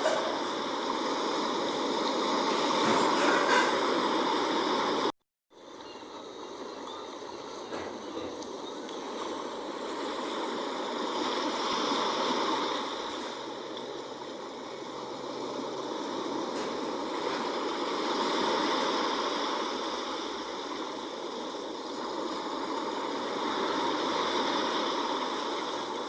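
Sea waves washing in and drawing back, a steady rush of surf that swells and fades every few seconds. It cuts out for a moment about five seconds in, then fades back up.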